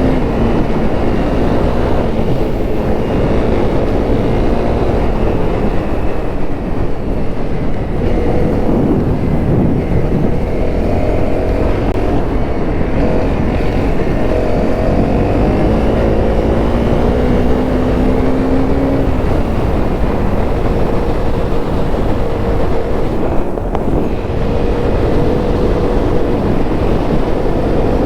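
Honda CRF250L's single-cylinder four-stroke engine running under way, its pitch rising and dropping as the rider accelerates and changes gear, then holding steady near the end, over steady wind rush.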